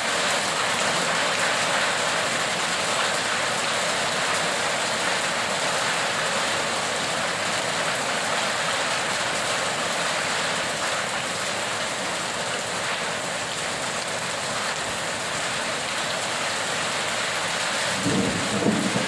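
Steady heavy rain falling in an even hiss. A short, louder low rumble comes in near the end.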